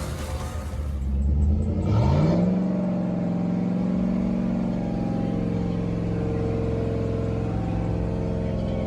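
Four Sundown NSV3 18-inch subwoofers playing a loud low bass tone that slides up in pitch about two seconds in, then holds steady.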